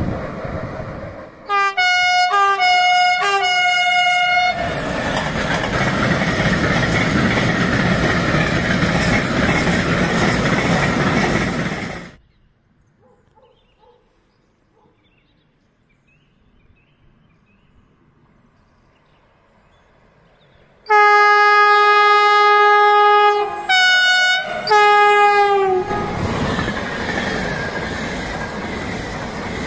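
Train horns sounding as trains pass, given as a greeting by the drivers. There are a few short chord-like blasts about two seconds in, then a train rolling by, which cuts off abruptly. After a quiet stretch comes a long blast, then two short ones, and another train rolling by.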